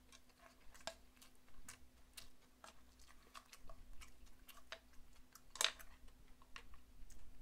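Quiet close-up chewing of fried rice and meat, with frequent small wet mouth clicks and smacks and the odd clack of a wooden spoon and metal chopsticks against a frying pan. One sharper click comes about five and a half seconds in.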